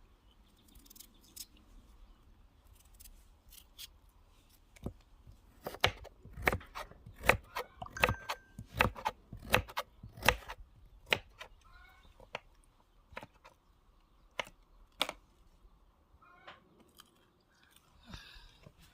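Irregular sharp knocks and clicks from food preparation, with a quick, loud run of them in the middle and scattered ones before and after.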